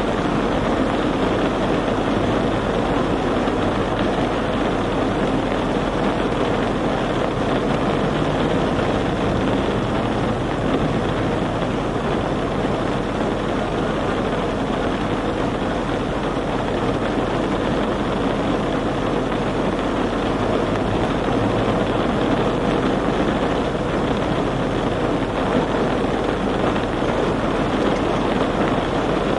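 Steady vehicle noise: an even rumble and hiss from a motor vehicle that keeps up without a break or a change in level.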